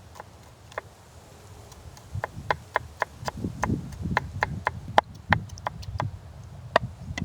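Knife chopping on a wooden cutting board: a steady run of sharp knocks, about three to four a second, starting about two seconds in.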